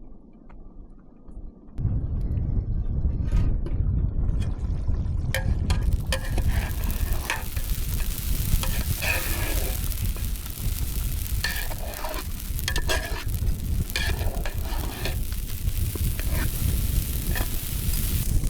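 Food sizzling and crackling over an open cooking fire, with a steady low rumble beneath it; the sound cuts in suddenly about two seconds in.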